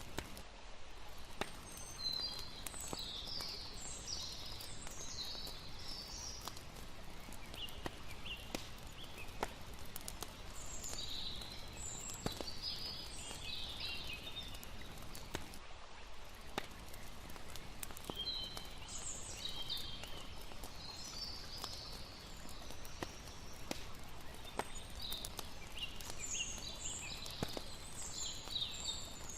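Layered night nature ambience: a steady wash of water with scattered campfire crackles and bursts of high chirping every few seconds.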